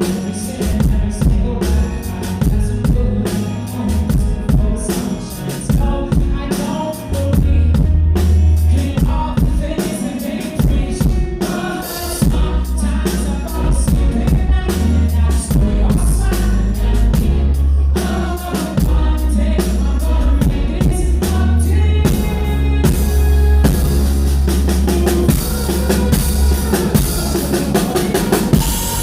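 Live rock band playing loud through a concert PA, with a driving drum kit of kick and snare and heavy bass, and a male lead vocal singing over it.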